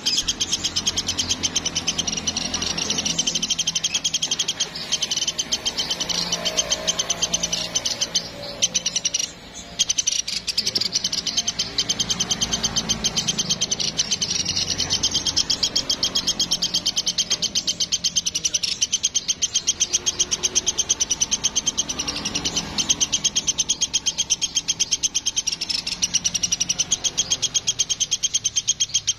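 Woodpecker calling in a fast, unbroken rattling trill of high notes, with a brief break about nine seconds in.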